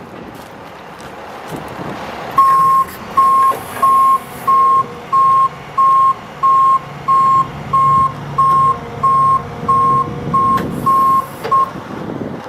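Backup alarm on an '05 International 7300 bucket truck beeping as it reverses: about fifteen evenly spaced single-tone beeps, roughly one and a half a second, starting a couple of seconds in. Underneath is the low, steady running of the truck's DT466 diesel.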